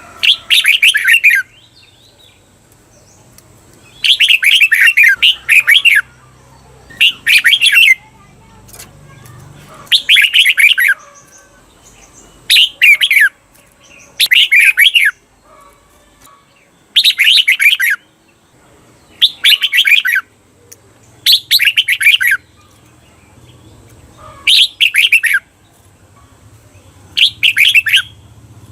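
Red-whiskered bulbul singing its bright, warbling song in short phrases, one every two seconds or so. Several phrases come as a doubled pair, the 'double' song style that bulbul keepers prize.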